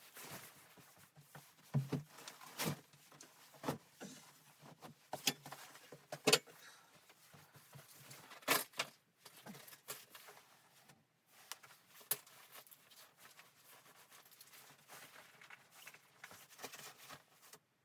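A run of irregular sharp clicks and knocks in a small room, spaced unevenly over the whole stretch, with a few louder knocks among them.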